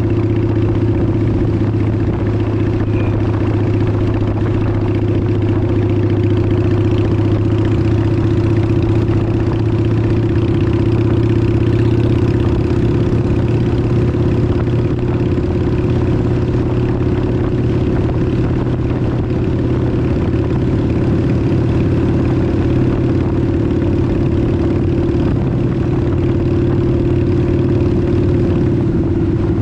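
Honda 750 motorcycle engine running steadily at an even speed, with a constant low hum and little change in pitch.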